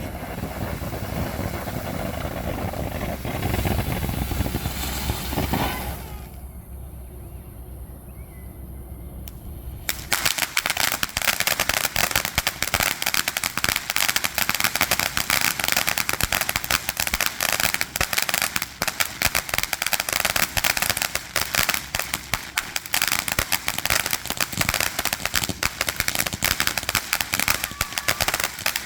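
Consumer fountain firework. About ten seconds in it bursts into a dense, continuous crackling that keeps on at a steady level.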